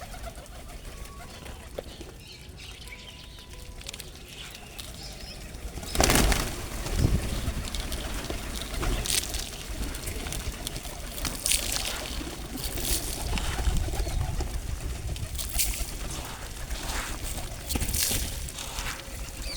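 Birds' wings flapping: a loud flurry about six seconds in, then repeated short bursts of flapping as birds take off and land at the feeding spot.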